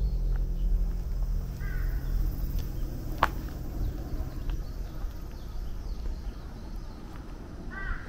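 A bird calling in the forest, a short run of chirps about two seconds in and again near the end, over a low steady rumble that slowly fades. A single sharp click a little after three seconds.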